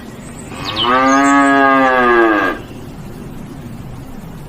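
Cow mooing: one long call of nearly two seconds, starting just under a second in and falling in pitch at its end.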